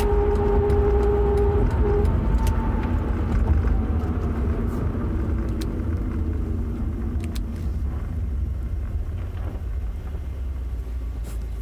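Car running with a steady low rumble and a steady whine that cuts out about two seconds in. Fainter tones then slowly fall in pitch as the sound eases off, as if the car is slowing.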